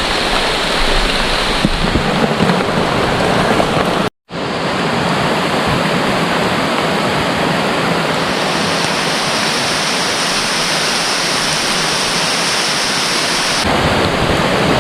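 Heavy rain pouring down in a loud, steady hiss. It drops out for an instant about four seconds in.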